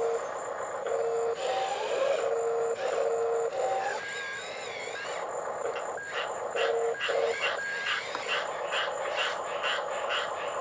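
Small electric drive motors of a toy remote-controlled skid steer whining in short on-off spurts as it is driven. In the second half a regular clicking, about three times a second, runs alongside.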